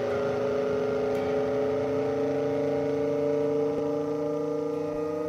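Car engine pulling steadily, its note rising slowly as the car accelerates, with road noise underneath.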